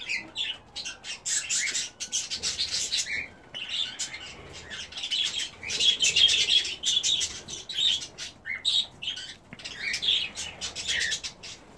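A flock of budgerigars and cockatiels chattering, with many quick, high chirps overlapping without a break.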